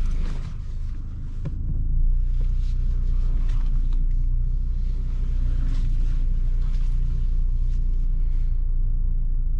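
Steady low rumble inside the cabin of a Genesis SUV with its engine running, with a few light knocks.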